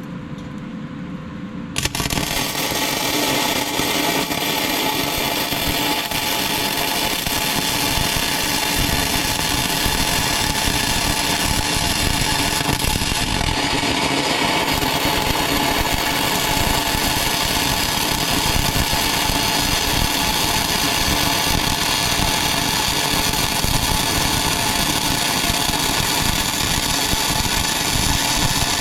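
Continuous arc crackle of a MIG welder running a long weld on steel plate. It starts abruptly about two seconds in and goes on steadily.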